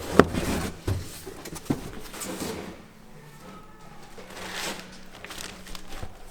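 A sharp knock just after the start, then a couple of lighter knocks and faint handling noise.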